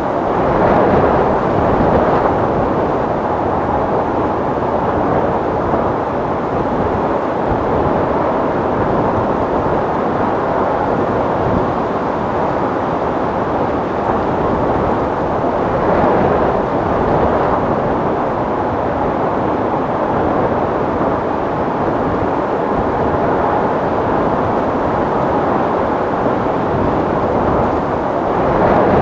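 Strong, steady wind: a dense noise with no pitch, swelling slightly about a second in, about halfway through and near the end.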